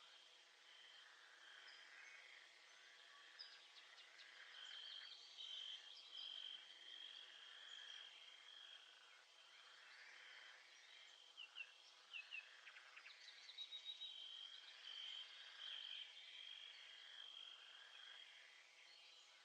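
Faint nature ambience: an insect trilling on one steady high note that breaks off and resumes, with a few short bird chirps in the middle.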